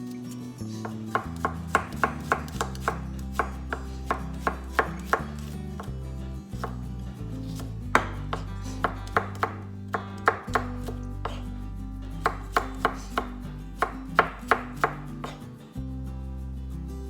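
Knife chopping on a cutting board in three runs of quick strokes, about three a second, over background music.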